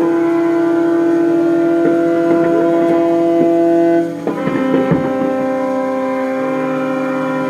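Many ships' horns sounding together, several long steady blasts at different pitches overlapping, with the mix of pitches changing about four seconds in.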